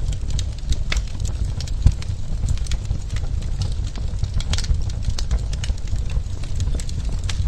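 Wood fire burning in a fireplace: logs crackling and popping in quick, irregular snaps over a steady low rumble.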